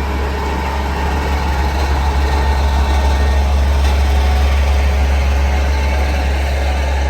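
Heavy diesel engine of a big bulldozer running steadily with a deep drone, growing a little louder over the first few seconds and then holding.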